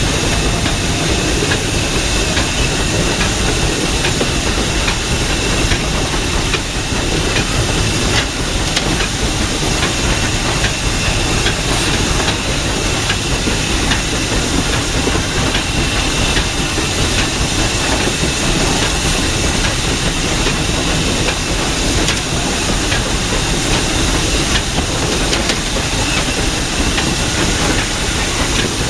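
Steam locomotive No. 12, a 4-6-0 narrow-gauge engine, running along, heard from inside its cab: a steady hiss of steam over the running noise, with occasional faint clicks from the wheels.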